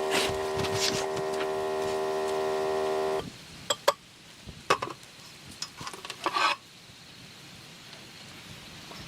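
A steady hum that cuts off suddenly about three seconds in, then a few sharp clinks of utensils against cookware, over a faint steady hiss.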